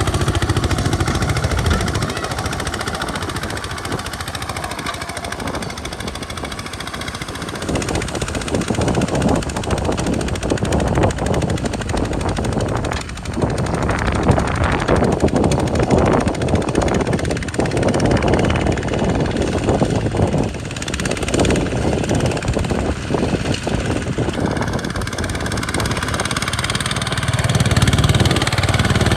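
Walking tractor engine running under load, with a rougher, rattling stretch through the middle.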